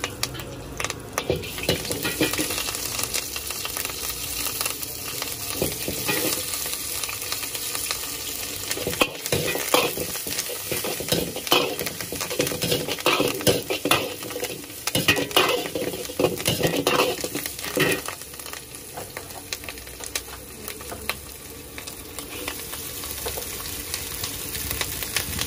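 Curry leaves, cumin seeds and green chillies sizzling in hot oil in an iron wok, with a steel ladle scraping and clinking against the pan as they are stirred. The ladle strokes are busiest through the middle, while the sizzle runs steadily under them.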